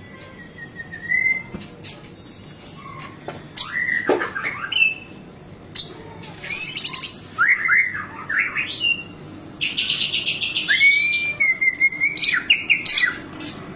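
White-rumped shama in full song: a varied run of whistles, rising and falling slurs and rapid trills, with a buzzy rattling phrase about ten seconds in. The song is packed with mimicked phrases of other birds.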